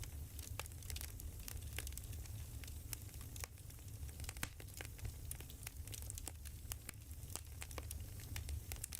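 Burning firewood crackling, with frequent irregular pops and snaps over a low steady rumble.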